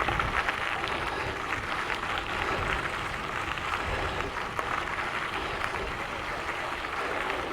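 Gravel bike tyres rolling over a gravel trail: a steady crackling hiss, with wind rumbling on the microphone underneath.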